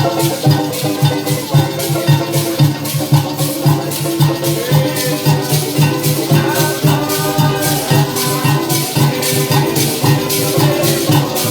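Parang band playing: live music with a steady pulsing beat and rhythmic high percussion.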